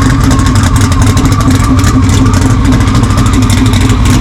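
A loud vehicle engine running steadily, with a rough, crackling edge.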